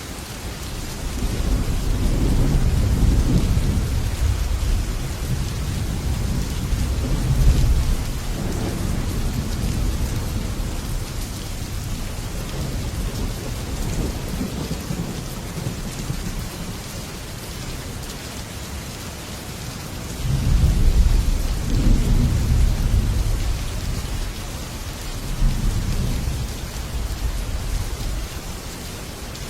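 Heavy rain falling steadily on a metal roof, a constant hiss, with low rolling thunder that swells from about a second in for several seconds, returns about two-thirds of the way through, and rumbles once more briefly near the end.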